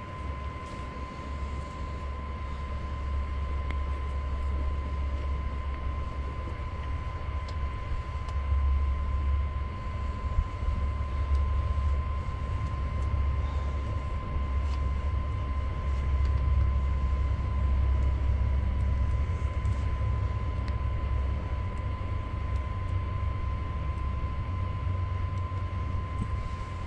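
Small electric blower fan under a wood-burning camp stove running steadily, a thin constant whine over a low rumble of the fan-fed fire, with a few faint knocks.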